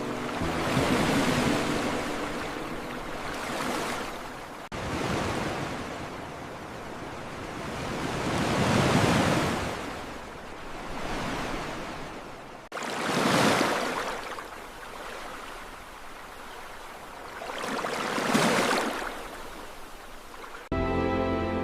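Ocean waves washing in, each surge rising and fading over a few seconds, with abrupt cuts between sections. Music comes back in during the last second.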